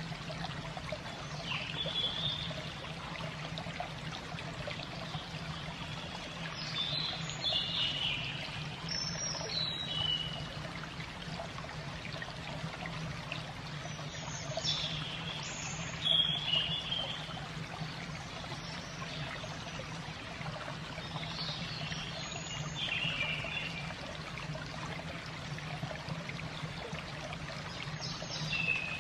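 Water trickling steadily, with a bird giving short, falling chirps about six times and a low steady hum underneath.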